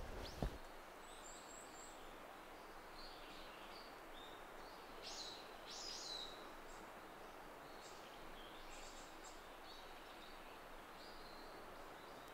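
Birds chirping faintly in short, scattered calls, the clearest about five to six seconds in, over a steady outdoor hiss.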